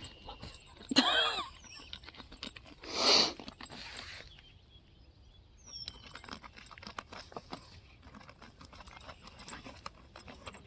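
German shepherd puppy scrabbling in loose dirt and small stones, a run of small clicks and scrapes. A short pitched vocal sound comes about a second in, and a brief hissy burst around three seconds.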